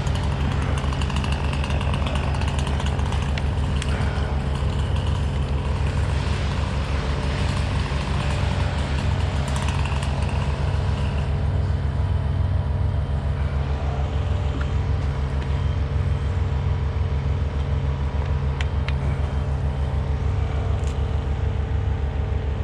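An engine running steadily at a constant speed, with an even low throb and no change in pace.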